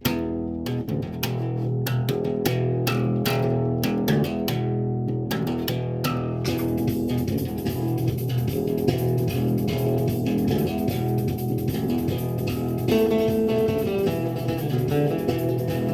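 Improvised bass guitar jam: single plucked notes ring and fade at first, and about six and a half seconds in the playing thickens into a denser, continuous layer with a steady high hiss over it.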